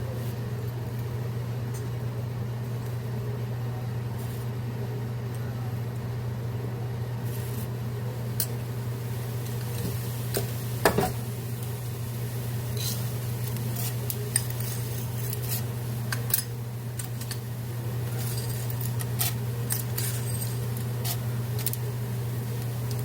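Dishes, glass and utensils clinking and knocking now and then during kitchen work, with the sharpest knock about eleven seconds in, over a steady low hum.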